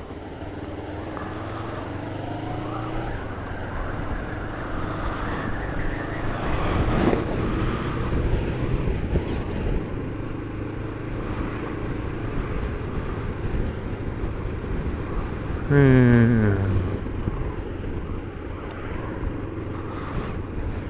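Kawasaki GPZ500 parallel-twin engine running under way, its pitch rising as the bike pulls away. At about 16 seconds a brief, loud rev falls quickly in pitch.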